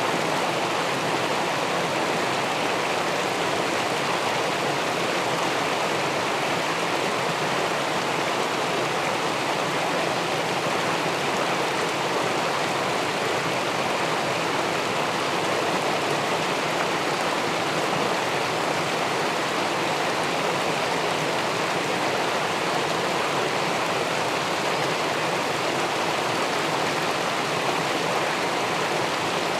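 Steady, unbroken rush of river water pouring over a weir into the pool below it.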